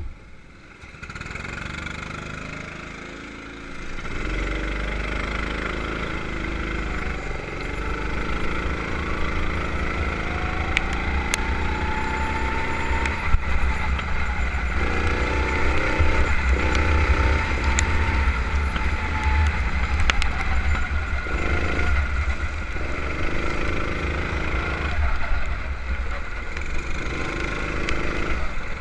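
Go-kart engine running at speed, quieter for the first few seconds and then louder, its revs climbing and dropping repeatedly as the kart accelerates and lifts off.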